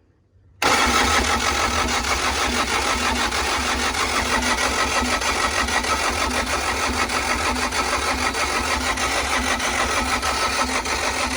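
Mitsubishi diesel engine of a CAT 307SSR mini excavator being cranked by the starter motor, kicking in suddenly about half a second in and turning over steadily with a fast even pulse. The injector pipes are loosened at the nozzles, so the engine is being spun over to push fuel through and purge air from the fuel system rather than to run.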